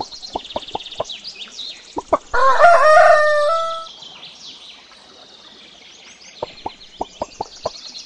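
Rooster crowing once, a long call that starts about two and a half seconds in and ends near four seconds. Short sharp clucking notes come before and after it, and small birds chirp high throughout.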